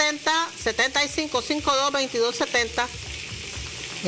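Chicken skewers frying in a little oil in a pan, sizzling with a steady hiss.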